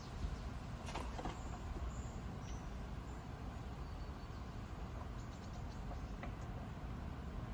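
Squirrel giving a few short, faint, high-pitched squeaks, with a few light clicks, over a steady low rumble and hiss.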